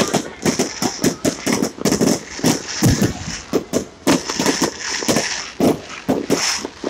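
Fireworks going off in rapid, irregular cracks and pops, many a second.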